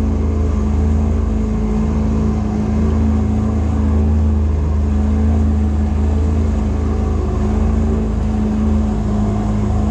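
A boat's outboard motor running steadily at speed, a constant loud drone under a rush of wind and water.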